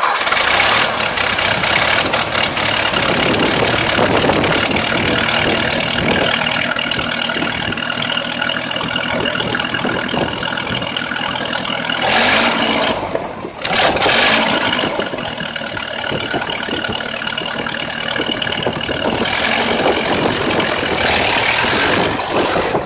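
Tractor engine running steadily and loudly, with a brief drop in level and a quick pick-up about thirteen seconds in.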